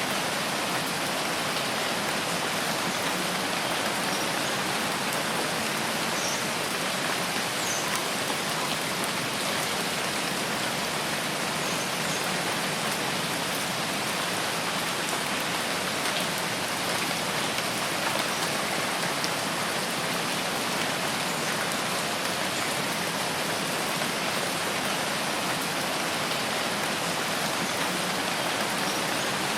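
Steady rain falling in a forest, an even hiss of drops on leaves and surfaces. A few faint high chirps come through now and then.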